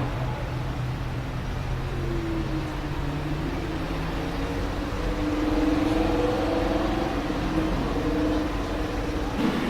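Lamborghini Huracán LP610-4's V10 engine running at low, fairly steady revs. Its pitch climbs a little in the first few seconds, then rises and eases back gently through the middle, getting slightly louder about halfway through.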